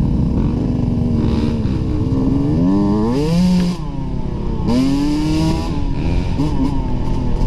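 Dirt bike engine revving under acceleration on a trail: its pitch climbs about two seconds in, drops off briefly, then climbs again and settles.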